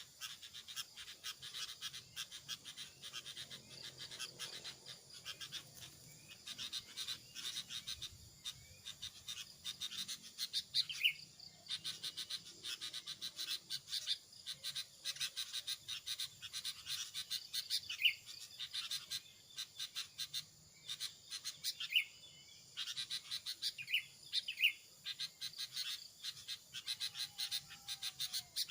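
Small birds chirping and chattering in fast, dense runs of high notes, with a short whistled note every few seconds.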